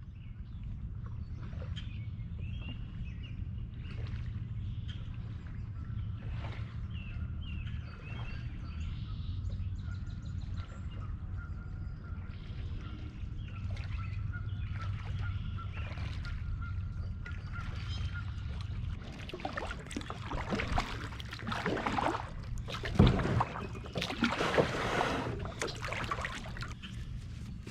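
Kayak paddling with water splashing, the strokes growing louder and more frequent from about twenty seconds in, while birds chirp and a steady low rumble runs underneath.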